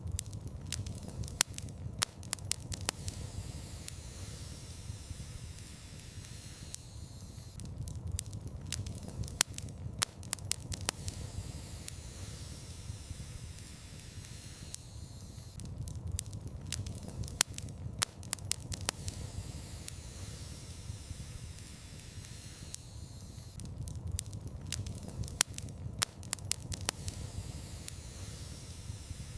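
Wood fire burning in a fireplace: a steady low rumble of flame with sharp crackles and pops scattered throughout. The same stretch of crackling repeats about every eight seconds.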